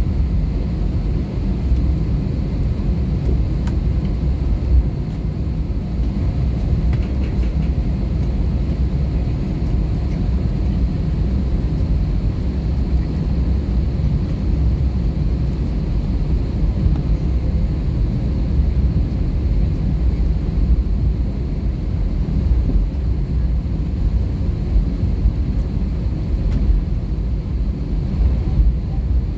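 Steady low rumble of a CFM56-powered Airbus A320-214 heard inside the cabin near the front, the engines running with the aircraft on the move around the time of takeoff, with a faint high steady tone over it.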